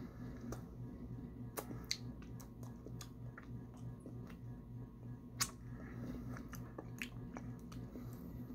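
Closed-mouth chewing of taro fudge: soft, wet mouth clicks and smacks at irregular intervals, one sharper click about two-thirds through, over a steady low hum.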